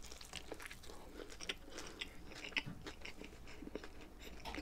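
A person chewing food close to the microphone: a run of soft, irregular wet clicks and small crunches.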